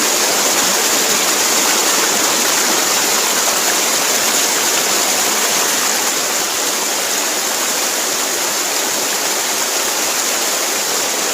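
Loud, steady rush of fast-running water, unbroken and unchanging.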